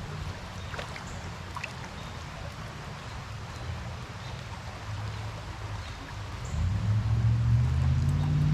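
A passing road vehicle's engine hum, low and steady, growing clearly louder from about two-thirds of the way through, over a faint background of flowing creek water.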